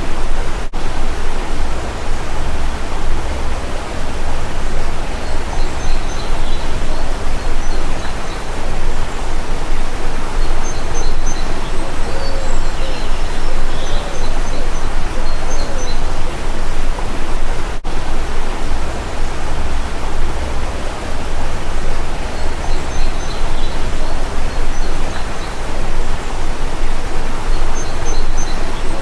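Stream of rushing water, a loud steady rush, with small birds chirping briefly every few seconds over it.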